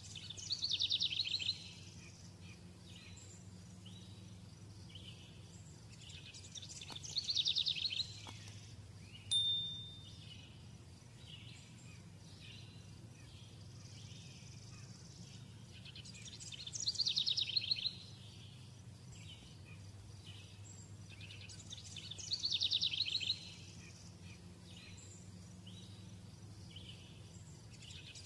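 A bird sings a short, quick, descending trill four times, a few seconds apart, over a faint steady low hum. A single short sharp sound comes about nine seconds in.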